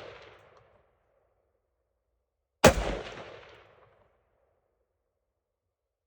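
A single rifle shot about two and a half seconds in, its report trailing off over about a second. At the start, the tail of the previous shot is still fading out.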